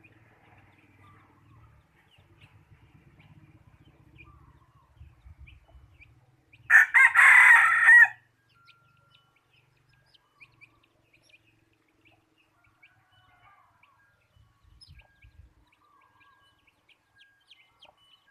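Decoy red junglefowl cock crowing once, a short loud crow about seven seconds in, with faint short bird chirps around it.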